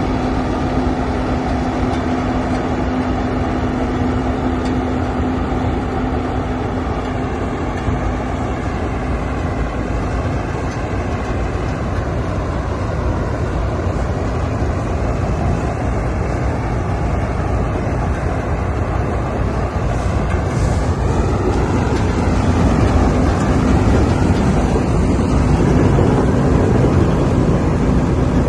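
Swaraj 969 FE tractor's three-cylinder diesel engine running steadily, getting a little louder in the last several seconds, with its pitch shifting briefly in between.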